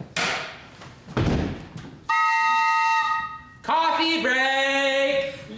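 Two loud thumps about a second apart, then a single held note from a wind instrument for about a second, followed by a pitched voice-like call that slides up and then holds for nearly two seconds.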